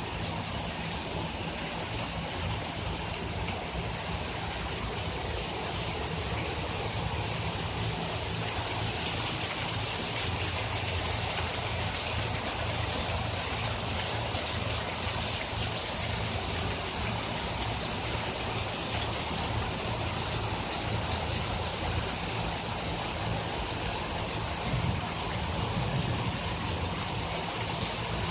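Heavy rain pouring and water rushing steadily in a rainstorm. It grows a little louder about eight seconds in.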